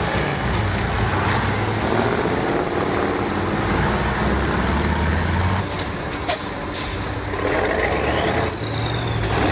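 Heavy all-terrain truck's diesel engine running under load, its pitch climbing as it revs about two seconds in, with a couple of sharp air hisses about six seconds in.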